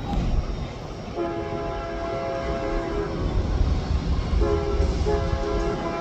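Locomotive air horn sounding a long blast, then after a short pause another long blast with a brief break in it, over the low rumble of the moving train.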